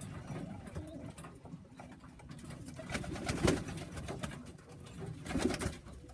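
Young tippler pigeons cooing in a small loft, with two louder rustling sounds about three and a half and five and a half seconds in.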